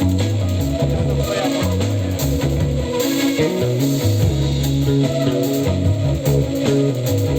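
A live band playing instrumental psychedelic trance: a bass line moves under guitar over a steady drum beat, with percussion.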